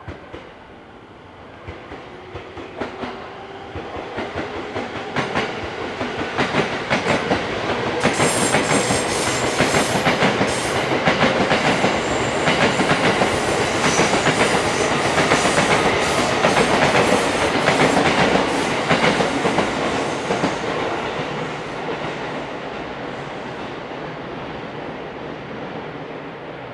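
A train running past on a nearby track, its wheels clicking rhythmically over the rail joints with a faint high squeal. It grows louder over the first several seconds, holds, then fades after about twenty seconds.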